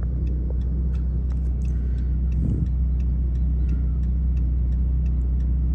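Steady low rumble of the chase vehicle's engine, heard from inside the cabin, with faint scattered ticks over it.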